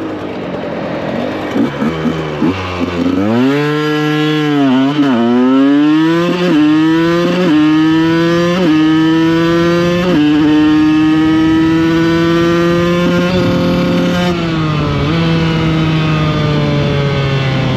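Two-stroke supermoto engine at full throttle, revving up through the gears with about five quick upshifts, each marked by a sudden drop in pitch. It then holds a high, slowly rising note at near top speed before the throttle eases off, and it settles to a lower steady note near the end.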